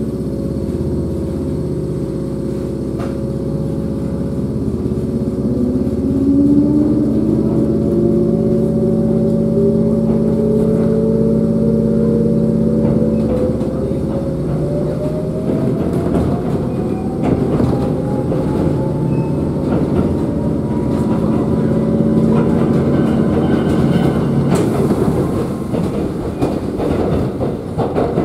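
Electric train pulling away, heard from inside the carriage: the traction motors' whine rises steadily in pitch as the train gathers speed. From about halfway through, the wheels' clickety-clack over the rail joints comes in over the running rumble.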